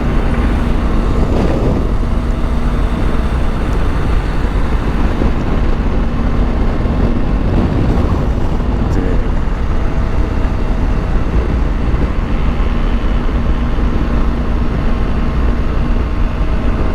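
Motorcycle cruising at a steady speed: a steady engine note under loud, constant wind rumble on the microphone.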